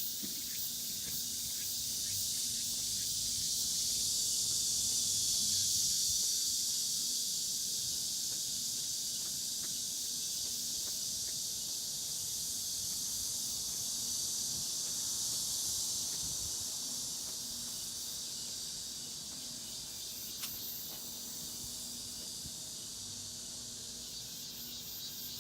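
A steady, high-pitched outdoor insect chorus that swells for a few seconds early on and then slowly eases off.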